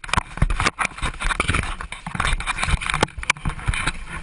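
Passengers scrambling inside the cabin of a small plane that has ditched in the sea: a rapid, irregular jumble of knocks, bumps and rustling over a rushing wash of noise as water comes in.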